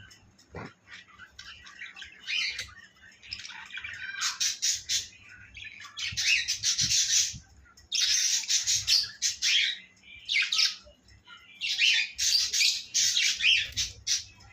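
Birds calling in harsh, noisy bursts of half a second to two seconds, repeated several times, loudest about halfway through and again near the end.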